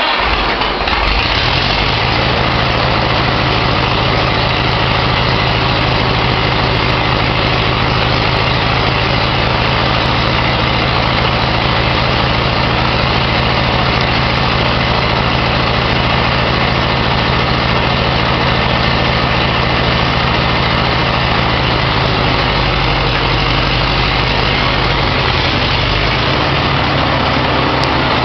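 1956 Farmall Cub's four-cylinder flathead engine idling steadily just after a cold start.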